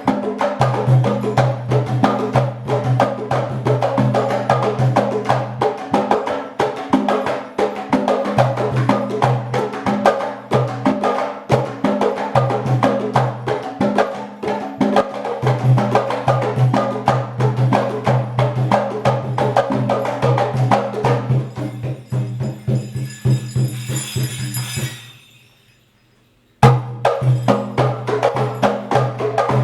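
Afro-Cuban percussion playing a fast, dense pattern of strokes over a steady low drum pitch. Near the end a high shimmering sound rises, the playing stops for about a second and a half, then resumes with a sharp stroke.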